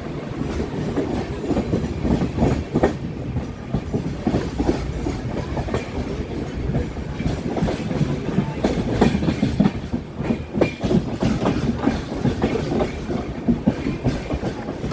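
Express train's LHB coaches rolling past as the train pulls out of the station: a steady rumble with irregular clicking and knocking of the wheels over rail joints.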